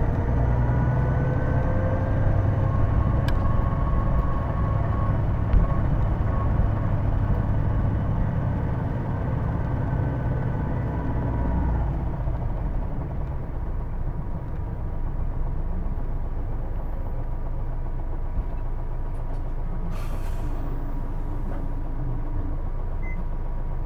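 Hino Blue Ribbon II diesel bus heard from inside, with a heavy engine rumble and a whine that rises slowly in pitch while it pulls for about twelve seconds. The recordist takes this whine for the transmission, calling it a distinctive noise that sounds almost like an automatic gearbox. The bus then eases off to a quieter steady run, with a short air hiss a few seconds before the end.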